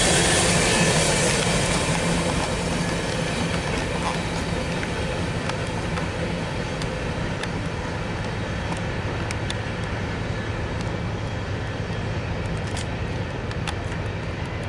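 Covered hopper cars of a BNSF grain train rolling away on the rails. The wheel rumble eases over the first few seconds as the last car recedes, then holds steady with a low hum and scattered sharp clicks.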